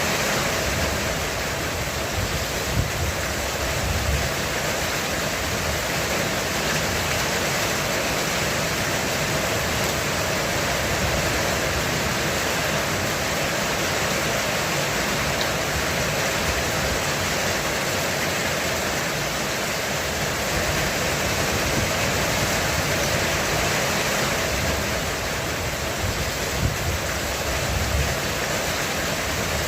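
Heavy rain falling steadily on a roof, an even, unbroken hiss of many drops.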